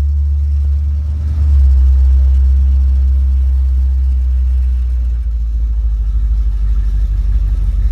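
Car on the move: a loud, deep low rumble of engine and road noise that swells about a second and a half in and turns pulsing after about five seconds.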